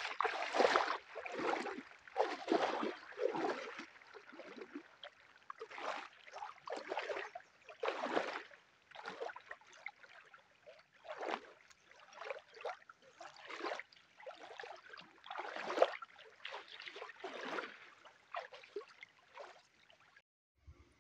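Water splashing and lapping in a series of irregular surges, about one a second, that stop abruptly near the end.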